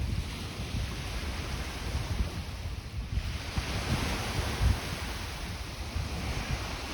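Lake Ontario waves washing onto the sand beach, a steady rush that swells midway, with gusty wind rumbling on the microphone.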